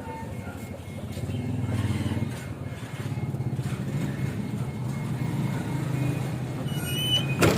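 Diesel truck engine running on biodiesel made from used cooking oil. It picks up about a second in and then runs steadily. Near the end come a brief high-pitched squeal and a sharp click.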